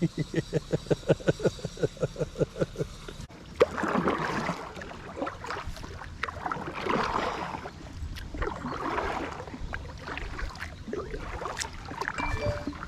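A fast, even mechanical pulsing of about seven beats a second, then, after a cut, kayak paddle strokes in the water, each one a rushing swell every second or two.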